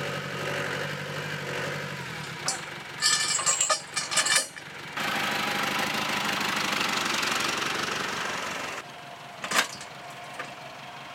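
A vehicle engine running at idle, with a few sharp knocks about two to four seconds in. It then runs louder for about four seconds, as when pulling a towed car, and eases back down near the end.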